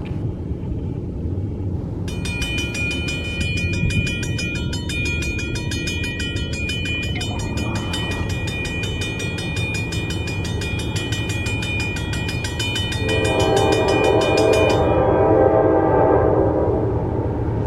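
Freight train locomotive passing with a steady low rumble. A high, steady ringing tone sounds from a couple of seconds in and cuts off suddenly. Near the end the locomotive's air horn blows a chord of several tones for a few seconds.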